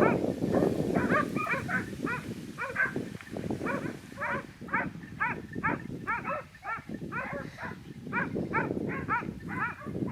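Hunting dogs barking over and over, roughly two barks a second, over a rough low rumble that is loudest near the start and again near the end.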